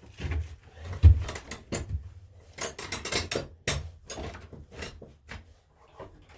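Irregular knocks, clunks and rattles of hard objects being handled and set down, as in working with tools and parts. The loudest knock comes about a second in, with a denser run of clatter a couple of seconds later.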